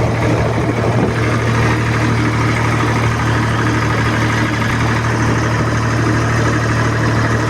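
Swaraj tractor's diesel engine running at a steady speed, with a deep even hum.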